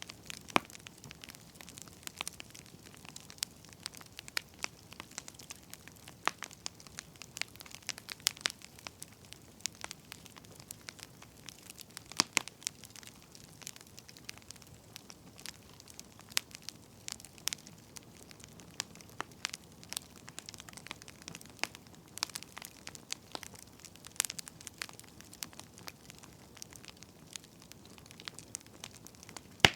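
Firewood burning and crackling: irregular sharp pops and snaps over a soft, steady hiss.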